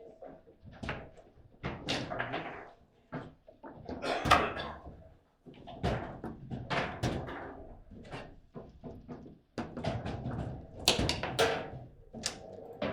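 Table football play: irregular hard knocks and bangs of the ball against the table walls and plastic players, and of the rods slamming, with a few louder cracks.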